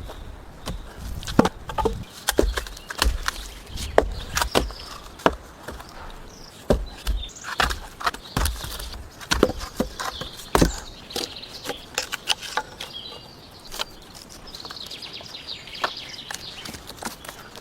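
Irregular sharp knocks and clicks, many over the stretch, with low thuds between them: hands or a tool working on something hard.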